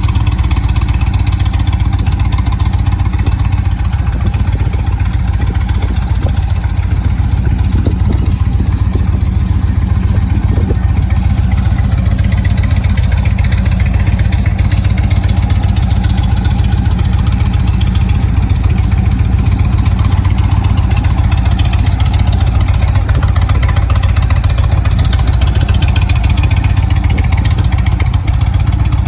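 Indian Chieftain Dark Horse's V-twin engine running steadily at idle.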